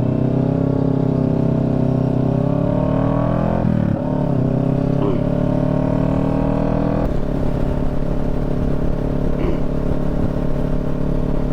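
Motorcycle engine heard from on board, pulling up through the gears: the pitch rises, breaks at a shift about four seconds in, rises again, then drops at another shift about seven seconds in and holds steady at cruising speed.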